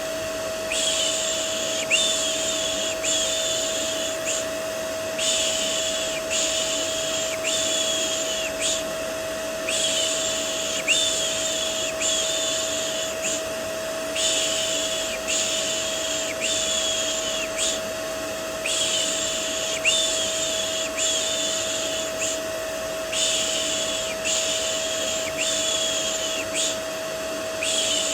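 Vacuum cleaner running steadily with a constant motor whine, under rhythmic 'shh' shushing for soothing a baby to sleep: about one shush a second in runs of four, with a short pause between runs.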